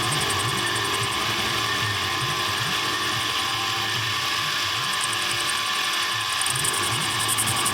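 A machine running steadily with a fast, even mechanical ticking, which grows stronger near the end.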